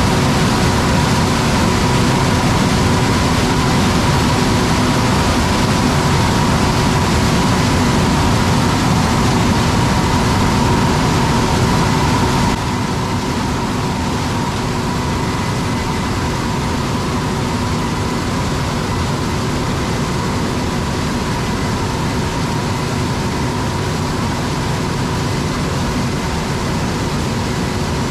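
Massey Ferguson harvest machinery running steadily while picking corn: a constant engine drone with a steady whine on top. The sound drops suddenly to a slightly quieter level a little under halfway through.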